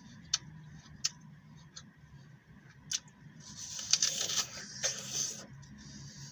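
Crisp green apple being chewed close to the microphone: a few sharp crunchy clicks, then a burst of dense, wet crunching from about the middle.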